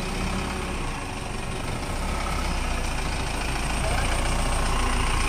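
Vehicle engine idling steadily, a low pulsing rumble that grows louder about two seconds in.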